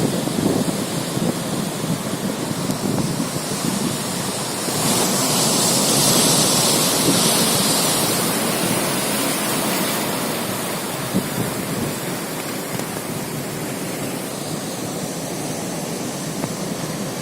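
Sea surf breaking and washing ashore in a strong wind, with gusts buffeting the microphone. The hiss of a breaking wave swells about five seconds in and fades away over the next few seconds.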